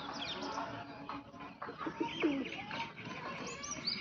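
Domestic pigeons cooing, with a busy mix of many short, high bird chirps overlapping throughout.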